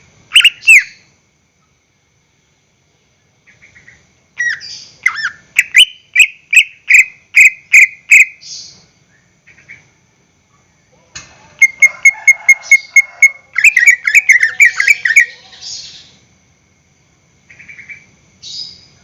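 Cucak ijo (green leafbird) singing loudly in bursts. There is a short phrase right at the start, then a run of about ten repeated whistled notes from about four to eight seconds in. After a pause comes a fast string of sharp clipped notes that breaks into a warble, and a couple of short calls near the end.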